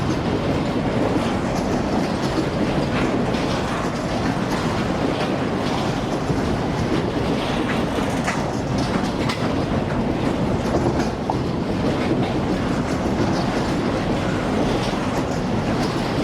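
Freight train wagons rolling past, a steady rumble of steel wheels on rail with scattered clicks.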